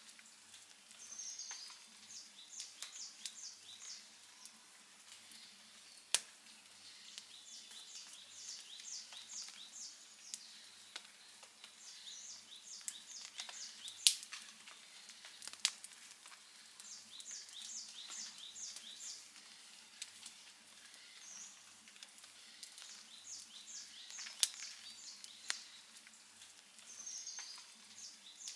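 Wood fire crackling, with scattered sharp pops; the loudest come about six seconds in, near the middle and about two-thirds through. A short, high-pitched chirping series repeats every few seconds behind it.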